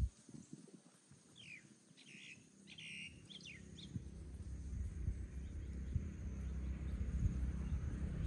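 Birds chirp briefly about two to three seconds in, a few short calls and sweeps. Under them a low rumble sets in and grows steadily louder for the rest of the time.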